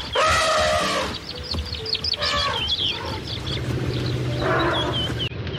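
Birds chirping, many short rising and falling calls in quick succession, after a louder pitched animal call in the first second. A low steady hum comes in during the second half.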